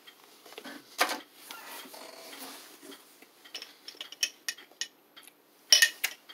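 A person chewing a bite of a chewy granola bar, then handling a clear plastic water bottle: a sharp click about a second in, a run of small clicks around four seconds, and a louder clatter near the end.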